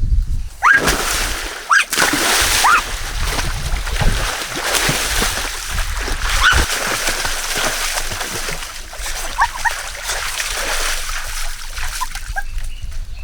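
Water splashing and sloshing in a swimming pool, a steady rushing spatter, with a few short high chirps over it.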